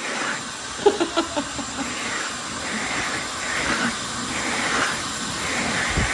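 Dyson Supersonic hair dryer blowing steadily, a rush of air with a faint high-pitched whine. A few short sharp sounds come about a second in.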